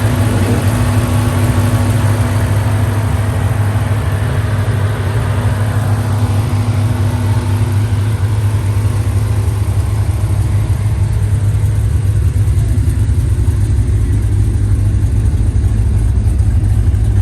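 Car engine idling nearby, a steady low rumble, with a steady hum that fades out about halfway through.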